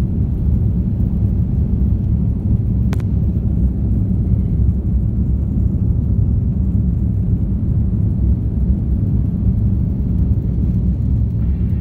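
Steady low rumble of jet engines and airflow heard inside an airliner cabin in flight, with a single short click about three seconds in.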